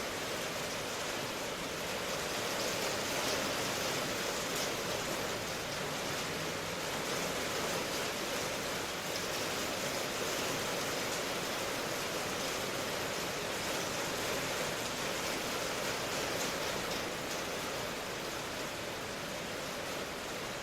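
Steady rain, a continuous even hiss of falling water with no distinct drops or thunder.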